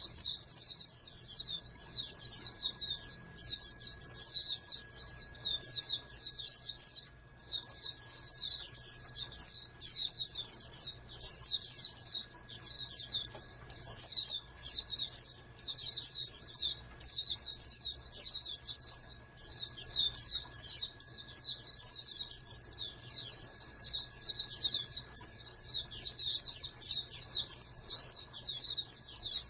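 Pleci (white-eye) singing a long, fast, high twittering song in phrases of a few seconds, with brief breaks between them.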